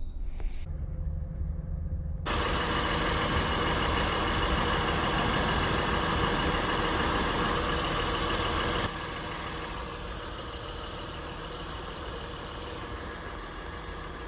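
Portable tire air inflator switching on about two seconds in and running with a steady buzz and fast, regular ticking; it drops in loudness partway through and keeps running. A low hum sits underneath before it starts.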